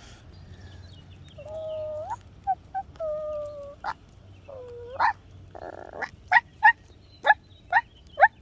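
A person imitating puppies: three drawn-out whimpers that turn up in pitch at the end, then a quick run of about five short, sharp yapping barks.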